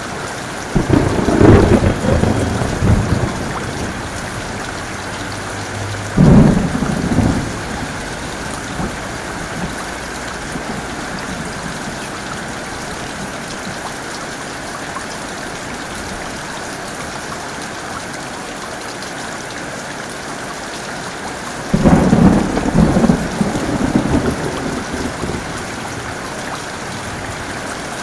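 Heavy rain falling steadily, with three rolls of thunder about one, six and twenty-two seconds in; the first and last rumble on for a few seconds, and the middle one is shorter.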